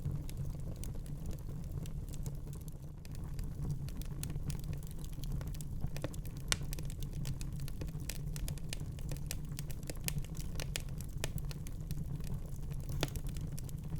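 Wood fire crackling in a fireplace: irregular sharp pops and snaps over a steady low rumble of the burning fire, with a few louder pops about six and a half seconds in and again near the end.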